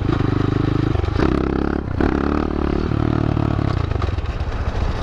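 125cc pit bike's single-cylinder four-stroke engine running under riding load, revving up about a second in, easing off near two seconds, then dropping to a lower, rougher rumble near the end.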